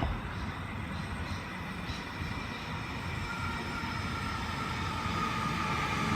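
Sydney Trains Waratah electric train pulling into the platform: rumbling wheels on rail, and from about three seconds in a whine of several steady tones from its traction motors grows louder as it comes close.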